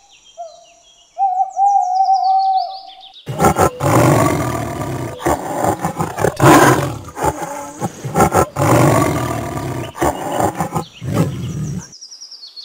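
An owl hooting in a few short calls. From about three seconds in, a tiger roaring and growling in repeated loud bouts, which stop shortly before the end.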